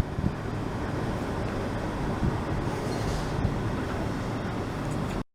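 Class 379 Electrostar electric multiple unit at the platform, a steady rumble with a low hum. It cuts off abruptly near the end.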